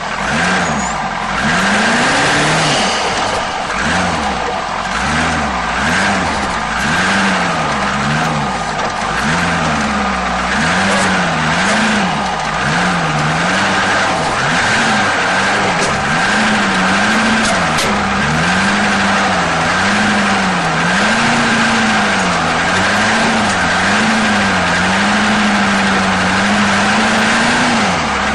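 Off-road 4x4 truck engine revving up and down over and over, roughly once a second, as the throttle is worked.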